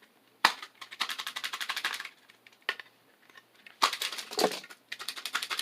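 Foil Pokémon card pack wrapper crinkling and crackling as it is handled and torn open, in two runs of rapid crackle: one about a second in, and a longer one near the end.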